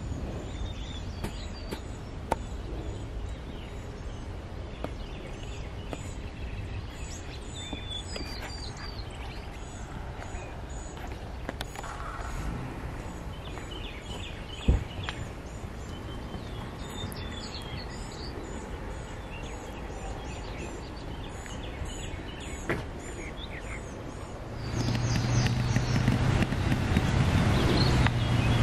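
Birds chirping and singing over a low background haze, with a few sharp knocks. About 25 seconds in, a louder low rumble with a steady hum comes in and keeps going.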